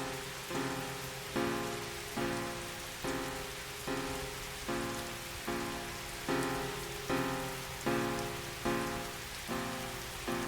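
Steady rain sound under a slow run of chords, one struck about every 0.8 seconds and fading before the next.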